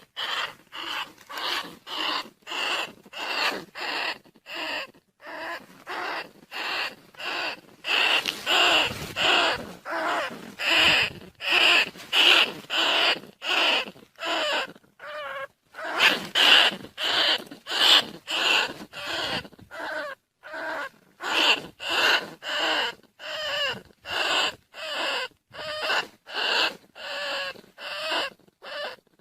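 Rat squeaking calls repeating about twice a second in a steady run: a lure call for rice-field rats and bandicoot rats, used to draw them to traps.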